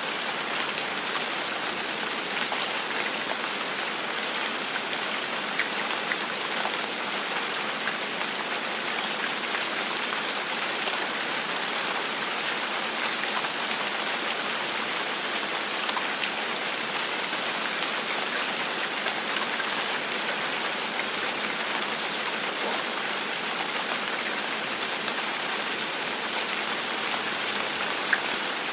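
Steady gentle rain falling on a surface, an even hiss flecked with individual drop ticks.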